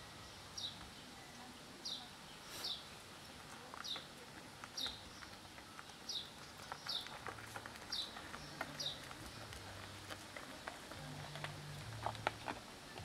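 A small bird chirping repeatedly outside, short falling chirps about one a second, over small wet clicks and crunches of cats chewing wet and dry cat food.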